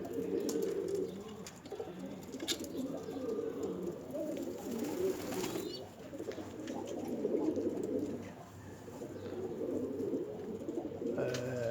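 Domestic pigeons cooing, a continuous low murmur of overlapping coos.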